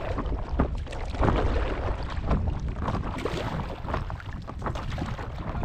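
Paddle strokes splashing and water sloshing around a stand-up paddleboard in irregular bursts, over a steady low rumble of wind on the microphone.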